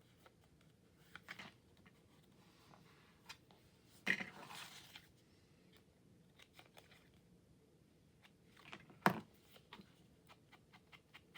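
Paper and cardstock being handled and pressed on a craft table: scattered light clicks and crinkles, with a louder rustle lasting about a second some four seconds in and a sharp click about nine seconds in.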